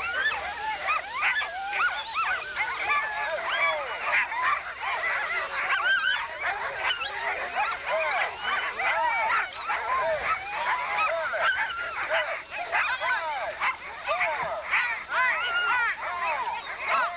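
A pack of sled dogs barking and yelping excitedly all at once, a dense, unbroken chorus of many overlapping voices.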